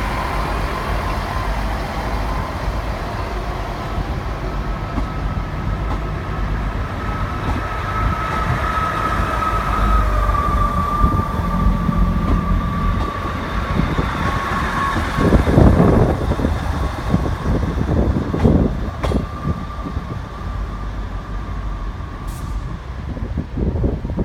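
Two coupled British Rail Class 158 diesel multiple units running in the station, a continuous low rumble under a steady whine. A few short louder rushes come through the middle of the sound.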